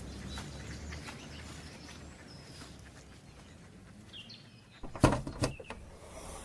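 Outdoor ambience with faint bird chirps, broken about five seconds in by two or three sharp clicks close together.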